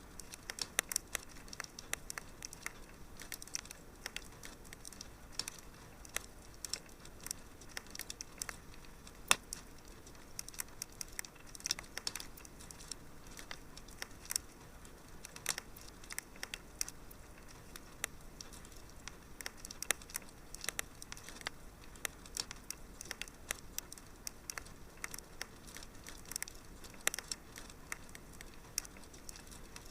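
Wood fire in a fireplace crackling, with many irregular sharp pops and snaps over a soft steady hiss. One pop about nine seconds in stands out as louder.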